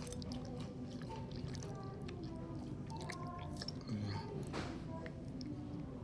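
A person chewing food, with wet mouth sounds and a few short clicks, over quiet background music with steady held notes.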